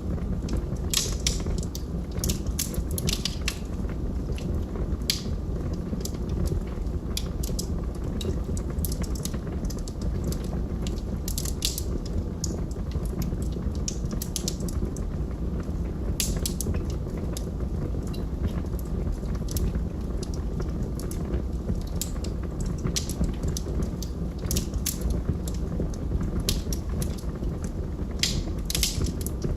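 Log fire crackling, with irregular sharp pops and snaps, some in quick clusters, over a steady low rumble of burning.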